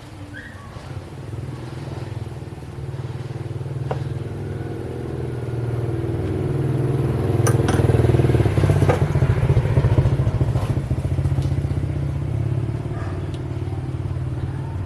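A motor or engine running steadily with a rapid low pulsing, growing louder over the first several seconds and then holding level, with a few light clicks over it.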